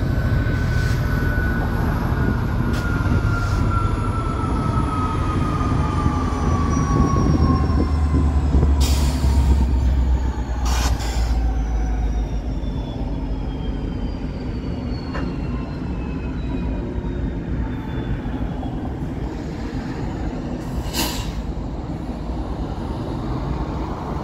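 Union Pacific intermodal train passing close by: double-stack container cars rolling past, then its SD70M and SD70AH-T4 locomotives going by with a low rumble that is loudest about nine to eleven seconds in. A high whine slides slowly down in pitch through the first half, and a few sharp clanks sound along the way.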